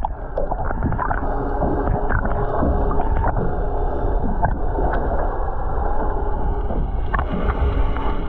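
Muffled underwater rumble and sloshing heard through a camera held below the water's surface, with faint steady humming tones underneath.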